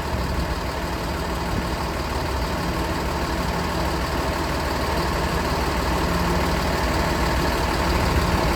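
Bus engine idling steadily, running the chassis air conditioning.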